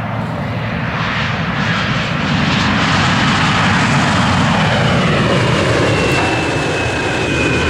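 Embraer E175 regional jet's twin turbofans on landing approach. The jet roar builds over the first few seconds, and near the end a high whine drops slightly in pitch as the aircraft passes.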